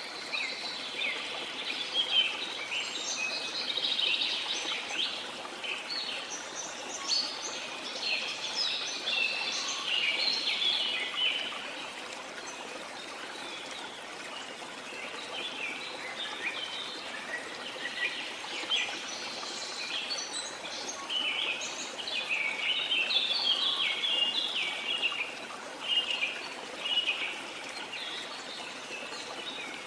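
Many birds chirping and calling in quick overlapping notes over the steady rush of flowing water, the birdsong coming in two busy spells with a thinner stretch between them.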